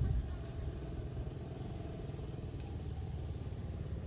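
Motorcycle engine running steadily, a low rumble that is briefly louder at the start.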